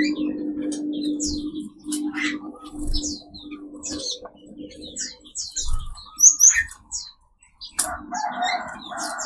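Mixed caged songbirds chirping and calling in quick, short, high notes, many birds overlapping. A low steady drone lies under the first half, and the sound drops out briefly after the middle.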